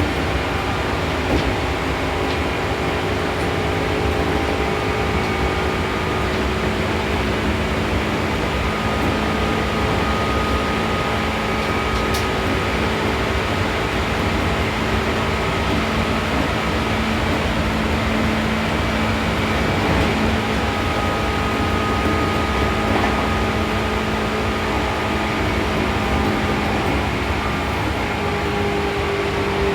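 Seibu New 2000 series electric train running at speed, heard from inside the car: a steady rumble of wheels and running gear with faint held tones from the drive that fade in and out. A stronger low tone comes in right at the end.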